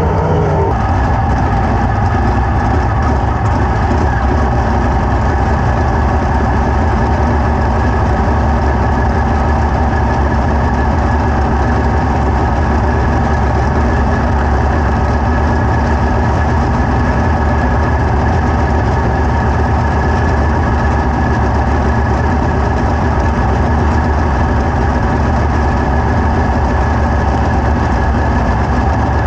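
An engine running steadily at one constant speed, a loud, even hum with no revving.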